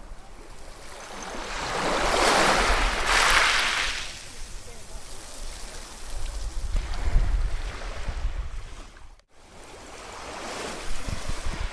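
Ocean waves breaking and washing up the shore, each surge swelling and then fading, with two big surges and a third building near the end. The sound drops out briefly about nine seconds in.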